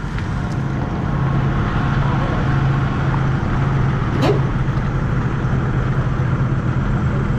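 Motor vehicle engine running steadily with a low hum, and a brief sharp squeak with a falling pitch about four seconds in.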